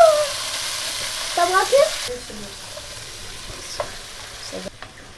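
Sliced red peppers hitting hot oil in a frying pan: a loud sizzle that drops after about two seconds and dies away shortly before the end. A short, high voice-like sound comes about a second and a half in.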